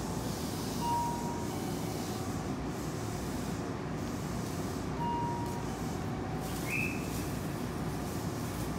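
Steady rumbling train noise at a station platform, with a short two-note chime (high, then lower) heard twice, about four seconds apart.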